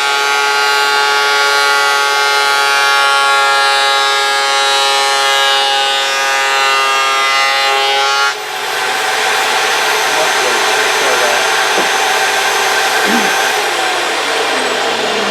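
Vevor electric wood planer running and cutting wood. A steady whine with many overtones gives way, about eight seconds in, to an even rushing noise.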